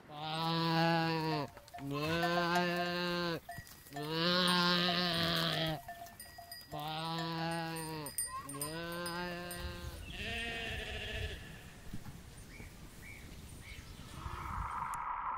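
Goats bleating: six long calls one after another, each lasting a second or more, the last one shorter.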